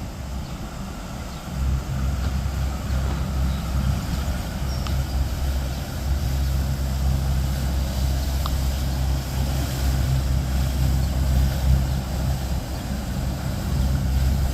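A motor yacht's engines running with a steady low drone as it passes along the canal, getting louder about two seconds in.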